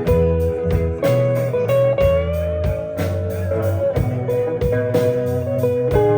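A band playing an instrumental break of a honky-tonk country song: a lead electric guitar plays held notes with pitch bends and slides over bass and a steady drum beat.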